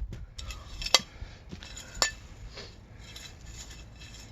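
Metal shovel scraping through dirt and stones, with two sharp clanks about one and two seconds in.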